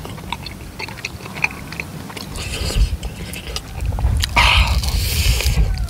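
Close-miked chewing of tteokbokki and fried snacks in spicy sauce, with many small wet mouth clicks. A low rumble comes in about halfway, and a louder, crackly stretch of chewing follows near the end.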